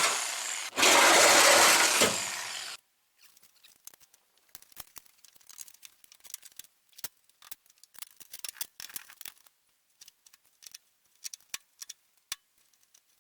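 Reciprocating saw (Sawzall) cutting through the sheet-metal dash of a pickup cab, running in two stretches with a short pause under a second in, and stopping a little under three seconds in. After that only faint scattered clicks and taps.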